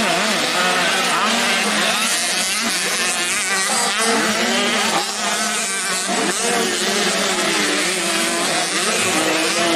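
Several 85cc dirt-bike engines racing together, their overlapping engine notes rising and falling with throttle and gear changes.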